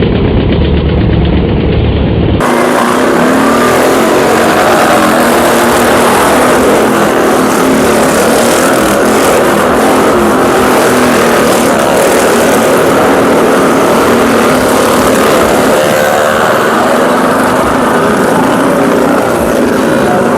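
Engines of motorcycles and cars running and revving continuously as they circle the wall of a well-of-death stunt show. The sound is loud and dense, and it fills out about two seconds in.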